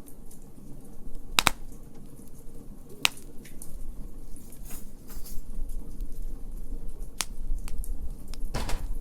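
Wood fire crackling: sharp pops at irregular intervals every second or so, the strongest about one and a half and three seconds in and a longer crackle near the end, over a low rumble.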